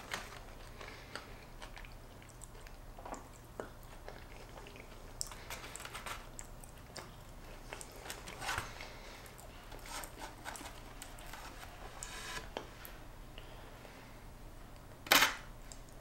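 A person chewing fried fast food close to the microphone: soft mouth sounds and small crunches, then one louder bite about fifteen seconds in as she bites into a slice of Texas toast.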